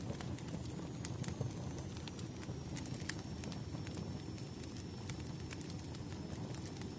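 Wood fire crackling: a steady low rumble with scattered sharp pops and snaps at irregular moments.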